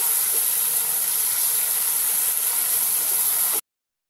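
Quartered mushrooms frying in butter in a non-stick kadhai, sizzling steadily as the water they released cooks off. The sound cuts off abruptly near the end.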